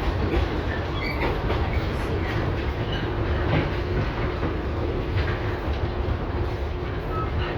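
LVS-2009 tram under way: steady running rumble of wheels on rail, with short knocks over the track and a faint steady whine that comes in about three seconds in.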